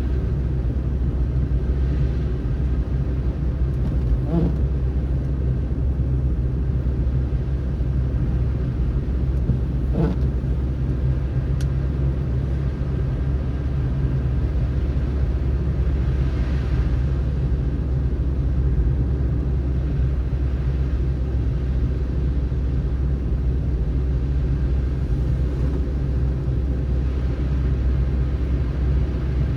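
A car driving on a snowy road: a steady low rumble of engine, tyre and road noise, with a few faint brief rising sounds over it.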